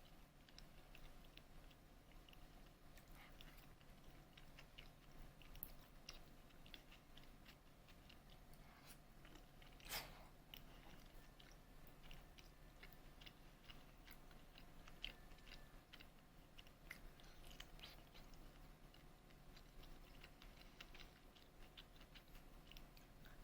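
Faint chewing and crunching of food, with scattered small clicks, likely a person eating.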